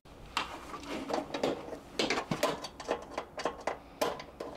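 Irregular clicks, taps and light knocks of small metal and plastic parts being handled while an air fryer is taken apart.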